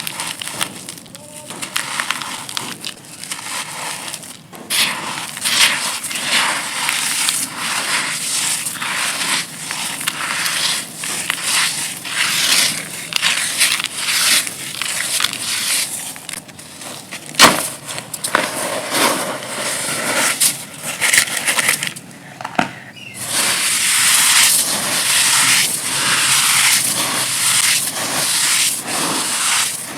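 Dry pressed red dirt cookies being crushed and crumbled, a dense run of gritty crackling and crunching. There is one sharp snap a little past the middle, then a short pause before a heavier stretch of crumbling.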